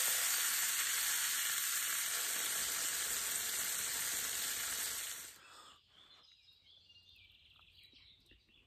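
Floured pieces of roe deer liver frying in hot fat, a steady dense sizzle that cuts off suddenly about five seconds in, leaving near silence.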